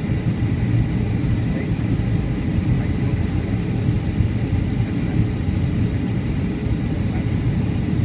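Cabin noise of a Boeing 757-200 in flight: a steady low rumble of engines and rushing air.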